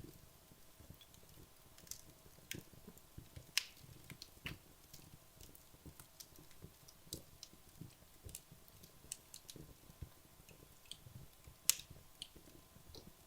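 Wood logs burning in a fireplace, crackling with irregular small clicks and a few sharper pops. The loudest pops come about three and a half seconds in and again near the end.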